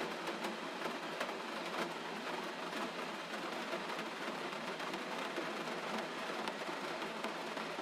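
Gentle rain falling steadily: an even hiss with light, scattered drop ticks.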